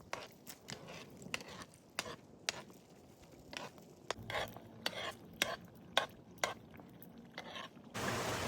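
A cooking utensil stirring and knocking against a pot, with irregular sharp taps about once or twice a second. Near the end a steady rushing hiss starts abruptly.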